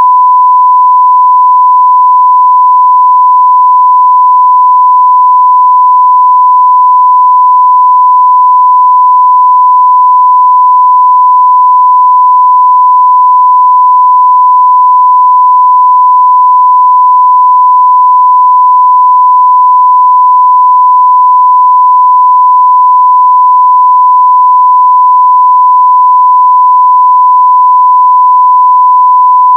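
Continuous 1 kHz sine-wave test tone at near full scale, one pure steady pitch with no change.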